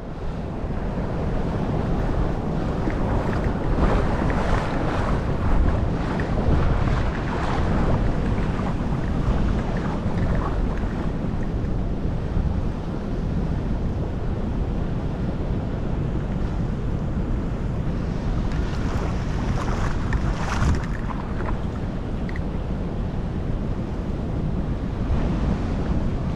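Steady wind noise buffeting the microphone over rushing water, with one brief louder swish about twenty seconds in.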